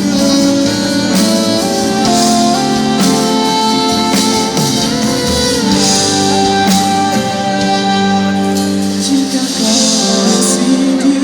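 Music from a live band: an instrumental passage of held, changing chords at steady loudness.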